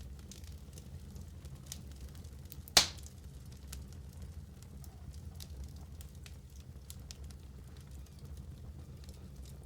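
Wood fire burning in a fireplace: a steady low rumble with scattered small crackles, and one loud sharp pop about three seconds in.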